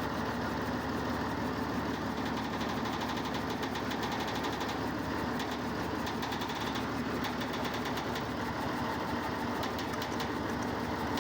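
A heavy engine running steadily at idle, with a faint rapid ticking over it.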